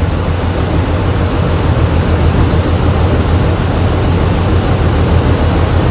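Jeep Liberty's 3.7-litre V6 idling steadily with a low, uneven pulse, running with a misfire that is blamed on a faulty ignition coil.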